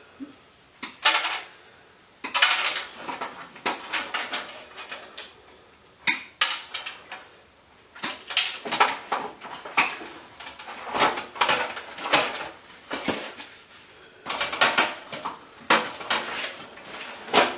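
Metal parts clinking and clattering with irregular knocks, as scrap electrical components are handled and pulled apart by hand.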